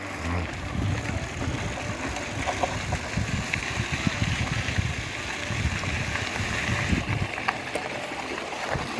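Wind buffeting the microphone of a moving bicycle, a gusting low rumble that rises and falls, over a steady hiss.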